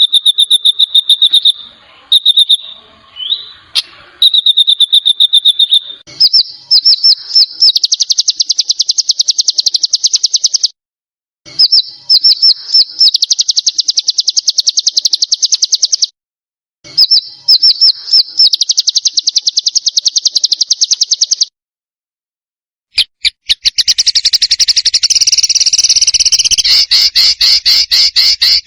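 Songbird giving long, rapid-fire trills: each starts with a few distinct high notes that speed up into a fast run lasting several seconds, and stops cleanly before the next begins. Near the end a harsher, wider-sounding rapid trill takes over. These are 'tembakan' masteran calls played to tutor competition songbirds.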